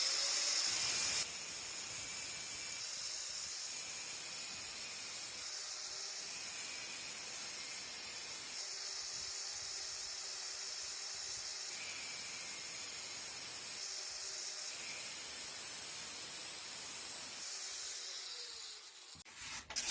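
Angle grinder sharpening a steel kitchen knife blade: a steady, high-pitched grinding hiss, louder for the first second, stopping shortly before the end.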